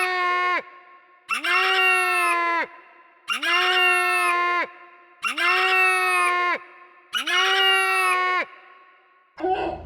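A long pitched call, sliding up at the start, held, then dropping off, repeated four times about every two seconds with each repeat identical, like a looped sample. Music starts just at the end.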